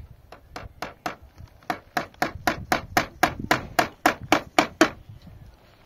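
Rapid hammer blows, about four a second, each with a short ringing note. Four blows, a brief pause, then about a dozen more before they stop near the end.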